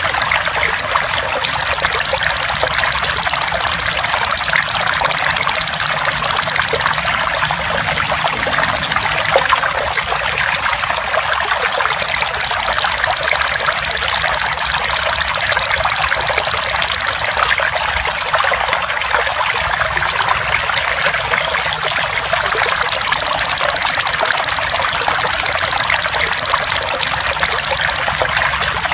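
Steady trickling water under three long, loud, high-pitched buzzing trills of a belalang emas (golden grasshopper) insect. Each trill lasts about five seconds and comes back roughly every ten seconds.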